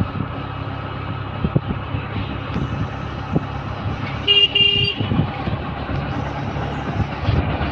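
A vehicle horn sounds two short toots, one right after the other, about halfway through, over a steady low engine rumble of road traffic.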